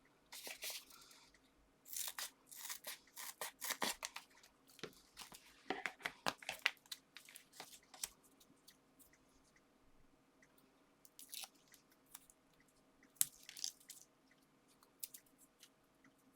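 Foam adhesive pads being peeled from their backing sheet and pressed onto paper and card pieces: scattered crinkles, small ticks and rustles, busy for the first several seconds and then more sparse.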